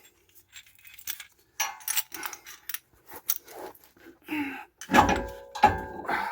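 Metal hand tools being handled, clinking and rattling, then two loud metallic clanks that ring on briefly near the end.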